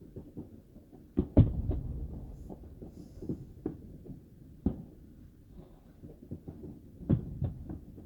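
Aerial fireworks bursting, heard muffled from inside a car: an irregular run of booms and cracks, the loudest pair about a second in with a long rumbling tail, then single bangs a second or more apart and a quick pair near the end.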